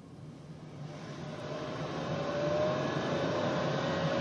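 Car engine running, with a steady low hum and a thin whine that creeps slowly up in pitch from about halfway in, growing steadily louder.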